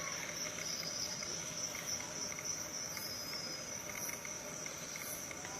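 Insect chorus, cricket-like: a steady high-pitched trilling with faint regular ticking beneath it.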